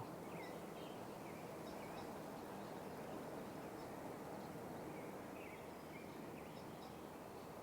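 Faint, repeated short calls of juvenile birds, a steady run of chirps over constant outdoor background noise.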